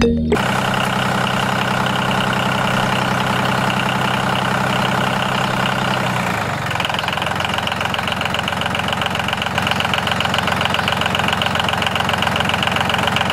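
A motor running steadily with a fast, even pulse; its pitch shifts about six seconds in.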